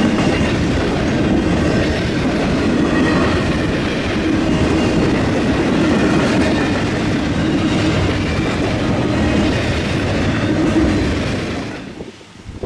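Freight train cars rolling past at a railroad diamond crossing, steel wheels clattering on the rails in a loud, steady rumble. The sound drops away sharply shortly before the end.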